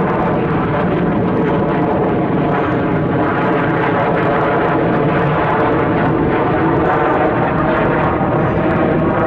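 Jet airliner's engines at takeoff power as it departs: a loud, steady jet noise with a layered hum of even engine tones running through it.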